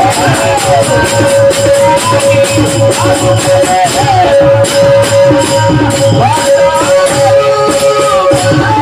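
Marathi devotional bhajan (panchapadi) being sung: a high male voice over a steady held drone note, with jingling hand percussion keeping a fast even beat and a drum underneath.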